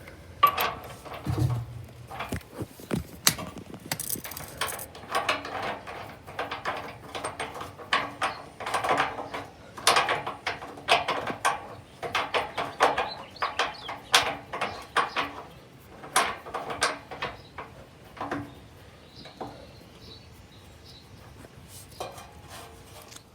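Hand-tool work on a bolted RV receiver hitch: a long, irregular run of sharp metal clicks and knocks, several a second, that thins out over the last few seconds.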